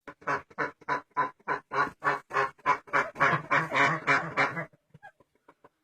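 Broody duck quacking in a rapid run of about three harsh calls a second, which run together into a continuous call before it stops near the end: an agitated, angry hen defending her nest.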